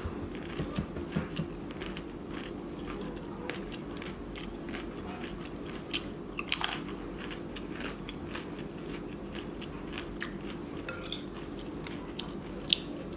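Close-up crunching bites of a crisp corn tostada and chewing, with the loudest crunch about six and a half seconds in. Near the end a metal spoon clinks in a glass bowl.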